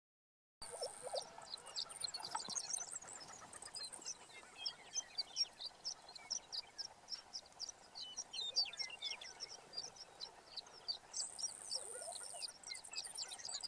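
Lesser prairie chickens calling on a lek: a dense, continuous chatter of short, high clucks and cackles. A few lower gobbling notes come through near the start and again near the end. The calls start suddenly about half a second in.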